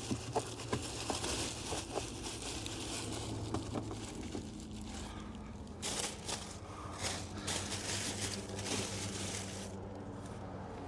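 Plastic masking sheet crinkling and rustling as it is handled, with scattered small clicks and crackles, over a low steady hum.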